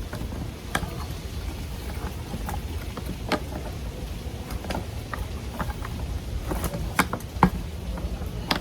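Scattered light clicks and taps of hands working a rubber compression gasket onto PVC pipe and handling the plastic coupling parts, over a steady low hum.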